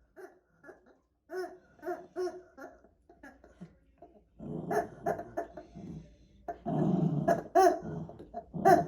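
Pomeranian puppies giving short, high yips, then from about halfway a louder run of growling broken by sharp yips.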